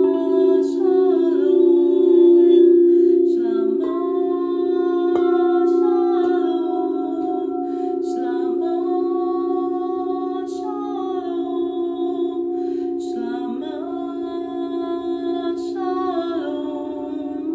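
A slow, wordless vocal melody, gliding from note to note in long phrases, over a steady low drone.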